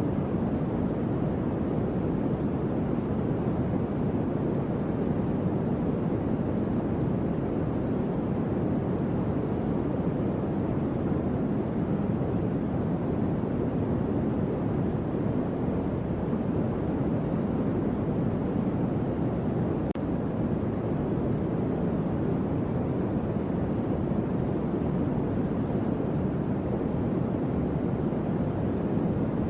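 Electric fan running steadily: an even, low airflow whoosh without any tones or changes.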